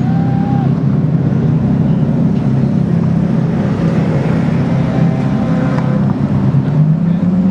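Ferrari engine running at a steady idle, its pitch starting to rise slightly near the end.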